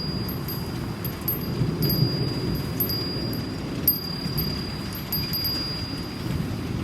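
Steady rain with a low rumble under it, and a Japanese wind chime ringing one high note, struck again several times.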